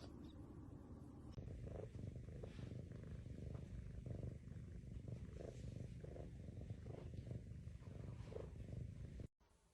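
A domestic cat purring steadily and quietly. The purr starts about a second and a half in and stops abruptly near the end.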